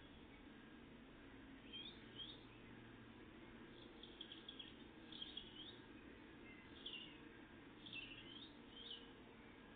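Faint songbird chirps: short, high, curved notes scattered through, bunched around the middle and again near the end, over a steady low background rumble.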